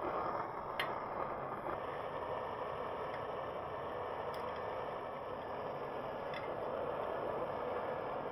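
Welding arc from a tungsten electrode hissing steadily while it melts a gold bead with added titanium in a graphite crucible, with a few faint clicks.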